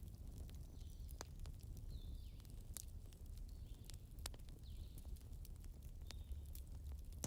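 Campfire crackling: irregular sharp pops and snaps scattered over a low, steady rumble.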